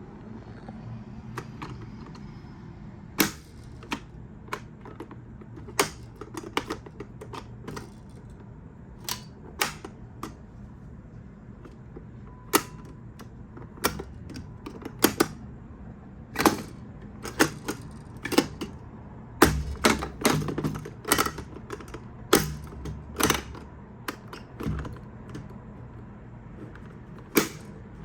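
Irregular sharp clicks and clacks of hard objects, sometimes several a second, over a steady low hum. They come most densely toward the last third.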